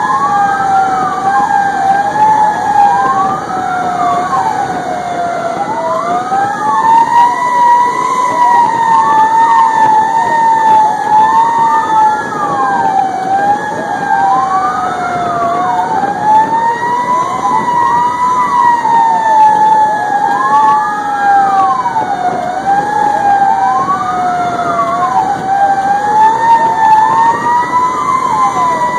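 Fire engine sirens running on an emergency response, two sounding together: a slow wail that rises and falls over several seconds and a faster wail sweeping up and down about once every two seconds, over the rumble of the moving truck.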